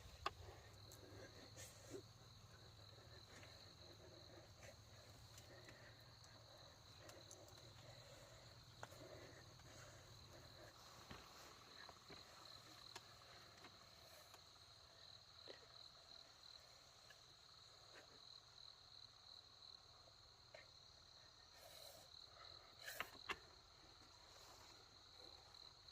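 Faint, steady chirring of insects: a high pulsing note that goes on without a break, with a few light clicks and a short louder patch of knocks a few seconds before the end.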